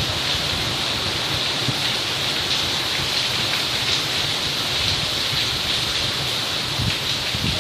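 Rain falling steadily in a thunderstorm: an even, unbroken hiss.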